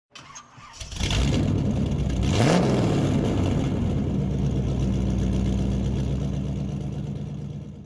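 Monster truck engine running loud. It comes in about a second in, revs up briefly, then holds a steady note that fades slightly near the end.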